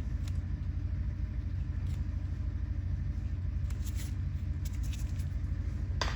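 Steady low motor hum, with a few short sharp clicks over it, the loudest near the end.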